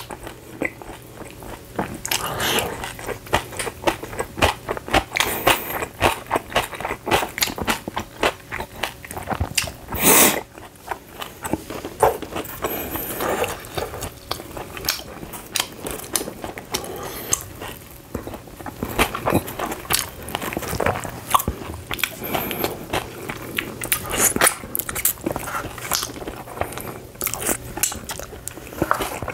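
Close-up sound of a person biting and chewing pizza, with many short crunches and wet mouth sounds from the crust and toppings. There is one brief loud noise about ten seconds in.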